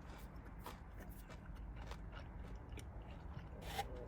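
Faint chewing of a crispy fried potato wedge, with scattered small crunches and mouth clicks.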